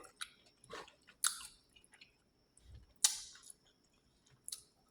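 A person chewing food with their mouth close to the microphone: a handful of short, separate mouth clicks and smacks, the loudest about three seconds in.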